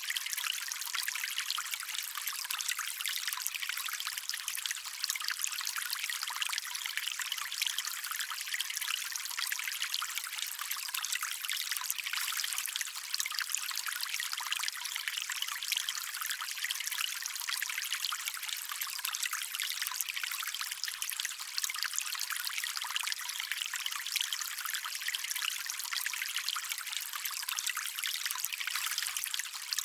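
Shallow stream water trickling and splashing over stones, a steady, bright patter without much low rumble.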